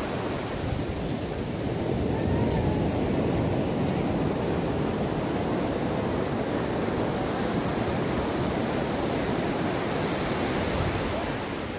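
Ocean surf breaking and washing up the shore in a steady rush, swelling louder about two seconds in.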